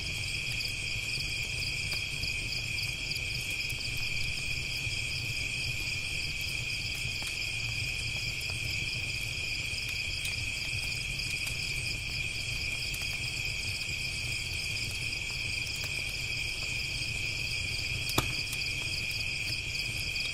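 A dense chorus of crickets chirping steadily, with faint scattered crackles and one sharp pop near the end, as from a campfire.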